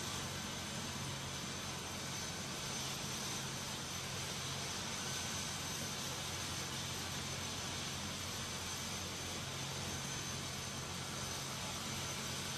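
Helicopter running steadily: a constant high whine over a low drone.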